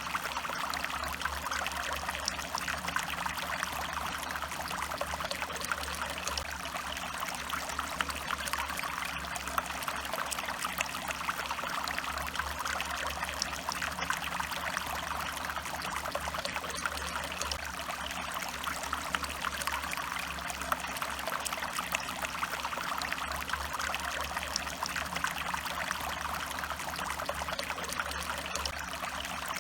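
Stream water flowing and trickling steadily, with a dense scatter of small splashes.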